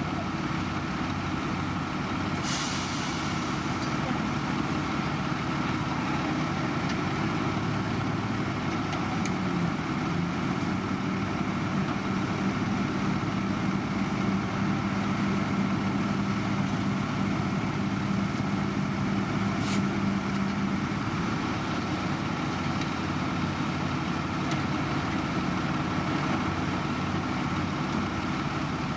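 Heavy diesel road-construction machinery running steadily. A short hiss of air comes a few seconds in, and a sharp click comes about twenty seconds in. A steady higher engine tone joins for about ten seconds in the middle.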